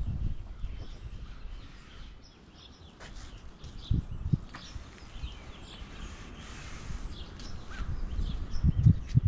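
Push broom sweeping sand across a paver patio into the joints: scattered rough strokes and a few knocks, quieter in the middle and picking up again near the end, with birds chirping faintly.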